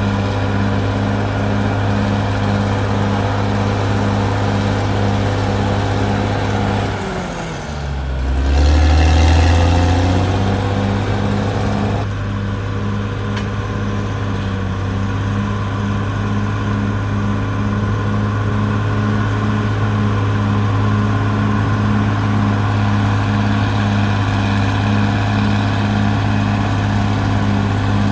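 Caterpillar D6R XL bulldozer's diesel engine running steadily with an even throb about twice a second. About seven seconds in, the engine note drops, then a heavy low rumble swells for a couple of seconds before the steady running resumes.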